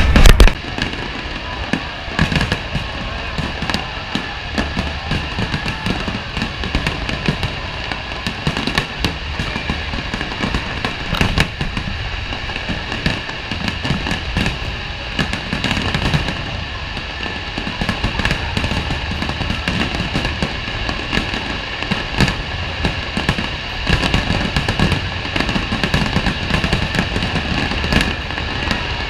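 Fireworks display: a continuous run of bangs and crackling bursts, with music playing underneath.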